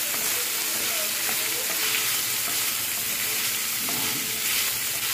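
Pork liver pieces sizzling in hot oil in a frying pan, stirred and pushed around with a wooden spatula as they are sautéed to cook off the liver's blood. The sizzle is a steady hiss.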